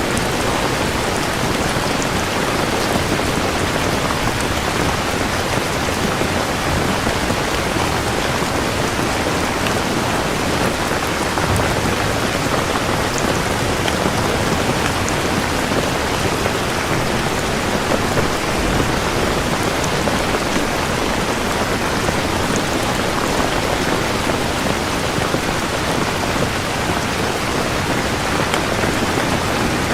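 Steady rain falling on a surface: an even, unbroken hiss of many drops at a constant level.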